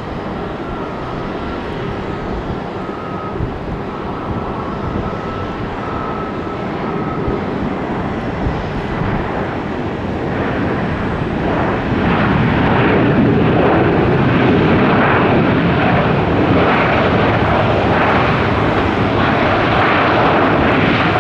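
Jet airliner engines running, with a faint steady whine in the first few seconds; the noise grows much louder about halfway through and stays loud as the aircraft passes.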